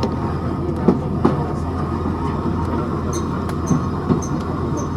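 Train running on the line: a steady rumble with occasional sharp clicks and faint high squeaks in the second half.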